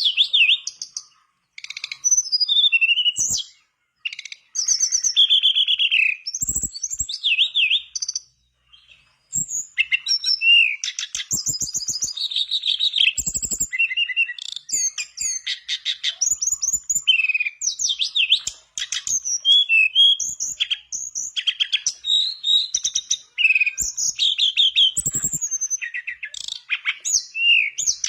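Tledekan bakau (mangrove blue flycatcher) singing a fast, varied song of high whistled phrases and rapid trills. The song runs nearly continuously, with brief pauses about 4 and 9 seconds in.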